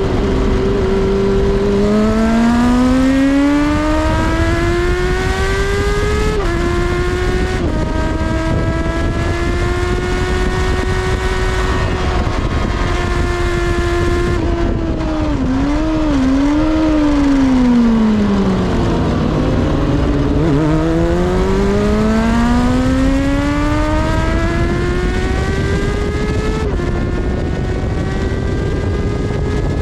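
Kawasaki ZXR400 inline-four engine at full throttle on track, heard from on board over heavy wind rush: it revs up through the gears with two quick upshifts a few seconds in, shuts off about halfway and blips through downshifts as it slows for a corner, then pulls hard again with another upshift near the end.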